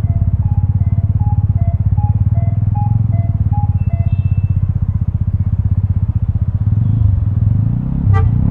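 Vespa scooter engine with a Prospeed aftermarket exhaust running steadily at low revs with an even pulsing beat. A faint two-note beeping alternates over it for the first half, and a short sharp beep sounds near the end.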